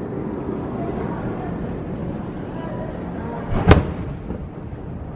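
An aerial firework shell bursting once with a loud boom about two-thirds of the way in, over a steady background of crowd chatter.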